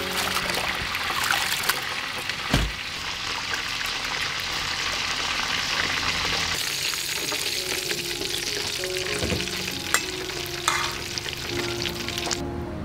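Food sizzling as it fries in a pan, with stirring and a couple of sharp knocks of a utensil. The sizzle cuts off abruptly near the end.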